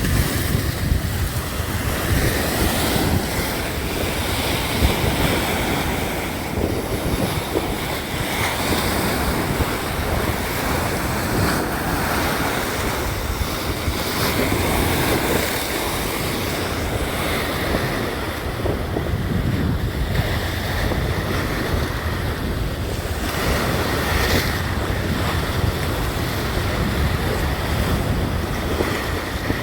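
Sea waves and surf washing steadily under a sea breeze, with wind noise on the microphone.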